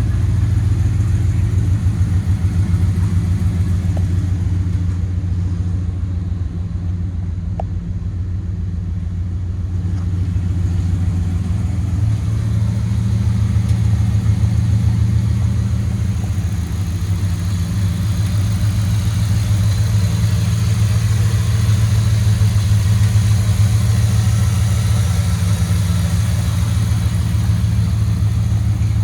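1996 Dodge Ram pickup's V8 engine running steadily with a low, even note; it grows a little louder about twelve seconds in and stays up.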